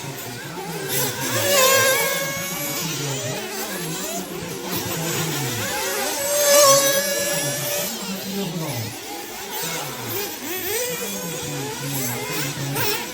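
Small two-stroke nitro glow engines of 1/8-scale off-road RC buggies racing, their pitch rising and falling over and over as they rev up and back off around the track.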